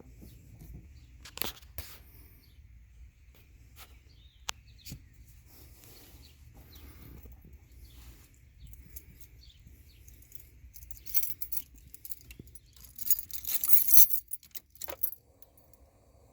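Keys jangling, with scattered clicks and small rattles, getting louder and busier for a few seconds past the middle; a faint steady high whine sits underneath.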